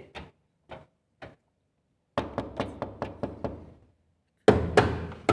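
Hands knocking and banging on a washing machine's body: a few light taps, then a quick run of knocks with a short ring after each, and louder bangs near the end.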